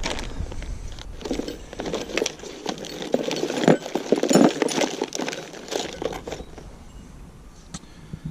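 Plastic packaging crinkling and rustling as hydraulic parts are unpacked and handled, loudest in the middle and thinning out near the end.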